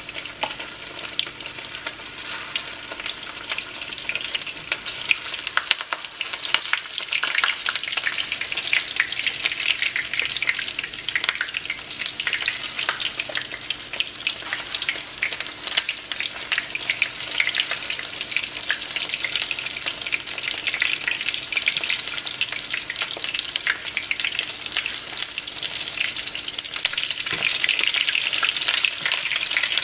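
Cornstarch-and-egg-coated chicken pieces deep-frying in hot oil: a continuous crackling sizzle with many small pops, growing somewhat louder near the end.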